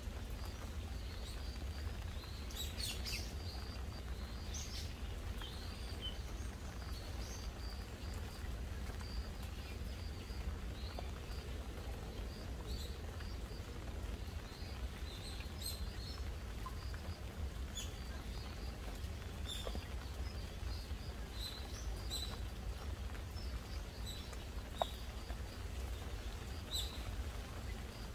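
Gentle rain with now and then a sharp tick of a drop, while small birds chirp in short high calls scattered throughout, over a low steady rumble.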